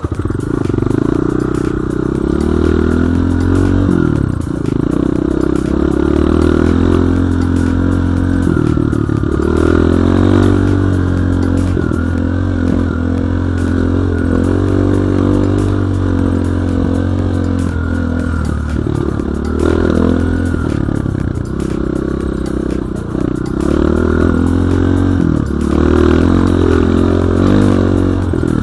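Dirt bike engine running under load as it is ridden, revving up and easing off again and again, with some rattling and scraping from the bike.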